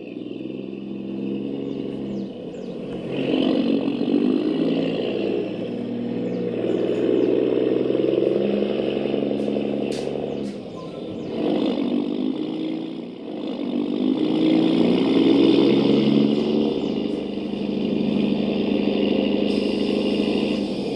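RC model truck driving, its motor giving a continuous engine-like drone that rises and falls in pitch, with a few light clicks and dropping back briefly twice in the middle.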